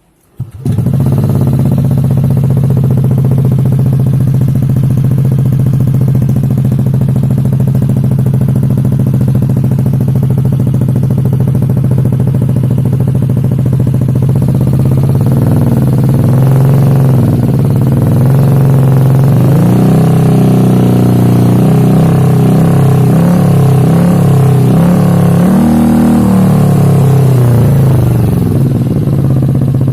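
Yamaha Aerox 155 scooter's single-cylinder four-stroke engine with an aftermarket exhaust. It comes in abruptly about half a second in and idles steadily, is blipped through several rising and falling revs about halfway through, then settles back to idle near the end.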